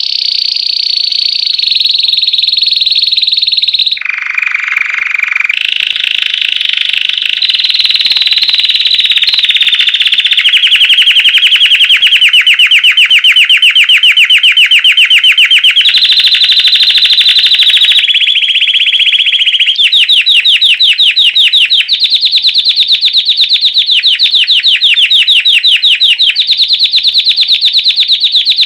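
White Belgian canary singing continuously in the classic 'campainha' (bell) song style: a chain of fast, ringing trills and rolls that switches to a new phrase every few seconds, with a lower, rougher phrase about four seconds in.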